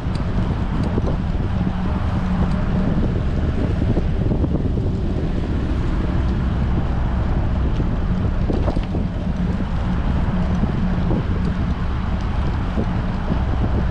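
Steady wind buffeting the microphone of a bicycle-mounted action camera while riding in strong wind, a loud rumble heaviest in the low range.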